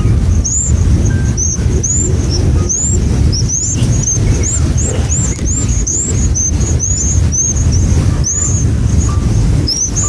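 Small birds chirping: short, high, arched notes repeated about two a second, over a steady low rumble.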